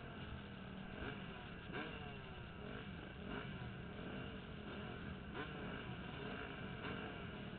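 Motocross dirt bike engine revving hard, its pitch climbing and dropping again every second or two as the throttle opens and closes, over a steady rush of wind noise.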